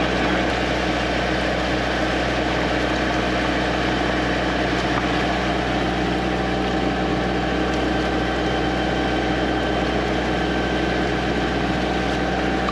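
High-pressure drain jetter's engine and pump running steadily while the jetting hose is driven up the stack.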